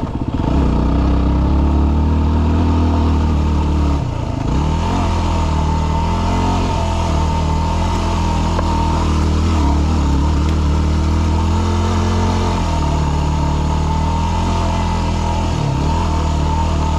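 Yamaha WR250R's 250 cc single-cylinder four-stroke engine running at a steady, low-to-moderate speed as the motorcycle rides a rocky trail, with two brief dips in the engine note, about four seconds in and near the end.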